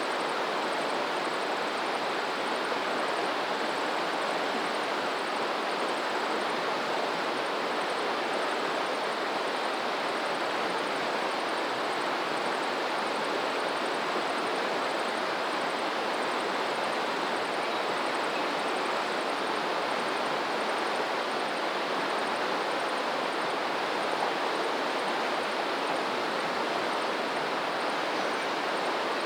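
Steady rush of flowing water from a stream or river, even in level with no surges.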